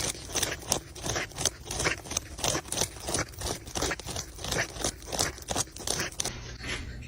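A dog scraping and crunching at something in quick, irregular strokes, about four a second.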